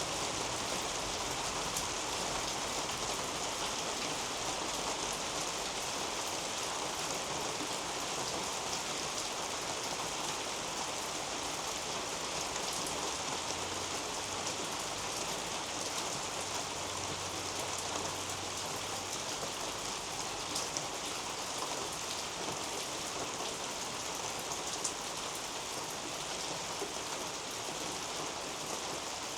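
Steady rain falling on garden leaves and a roof overhead, an even patter with a couple of sharper ticks in the second half.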